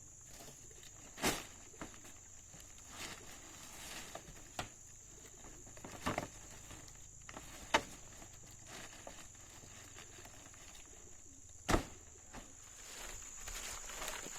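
Scattered sharp knocks and taps, about eight at irregular intervals, two of them louder than the rest, over a steady high-pitched insect drone.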